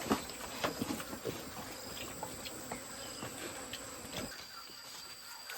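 Insects keep up a steady high-pitched trill, with scattered short clicks and knocks, most of them in the first second.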